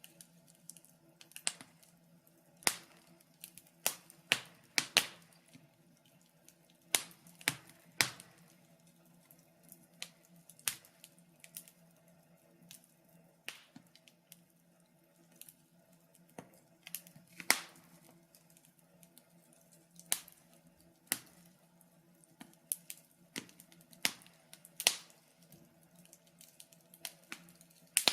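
Wood fire crackling: irregular sharp pops and snaps, some louder than others, with short quiet gaps between them.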